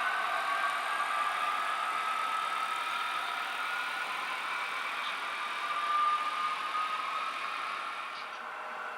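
HO-scale model diesel locomotive running, a steady engine sound with a whine that wavers slightly in pitch, growing a little quieter near the end.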